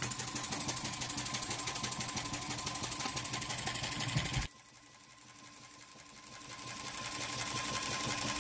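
Jensen 20-S model steam engine chuffing at a quick, even rhythm while running slowly on low steam pressure, about 7 psi. About halfway through the sound drops suddenly to a much quieter level, then grows louder again over the next few seconds.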